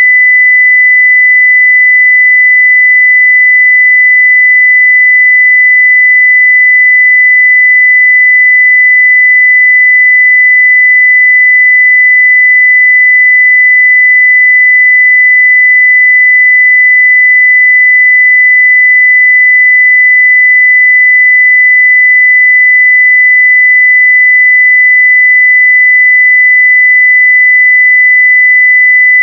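Continuous 2 kHz sine-wave test tone at full level, steady and unchanging in pitch and loudness.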